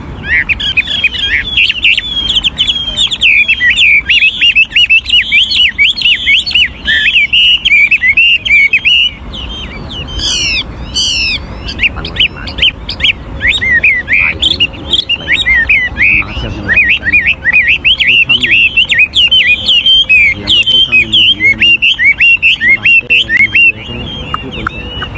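An old wild-caught Chinese hwamei singing a long, rapid, varied song of trills and warbles that keeps changing phrase. About ten seconds in the run breaks briefly for a couple of loud high sweeping notes, then the fast song resumes.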